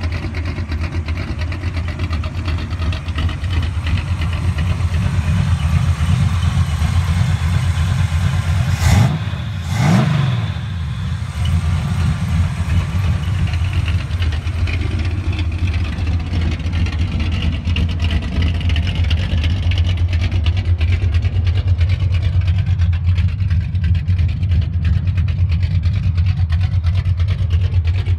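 1972 Chevy Nova's 408 cubic-inch big-block Chevrolet V8 idling steadily, revved twice in quick succession about nine seconds in before settling back to idle.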